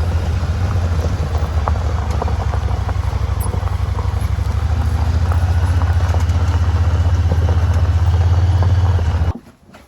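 Honda Pioneer side-by-side's engine running steadily as it drives, pulling a heavily loaded firewood trailer, with light clicks and rattles over the low hum. It cuts off suddenly near the end.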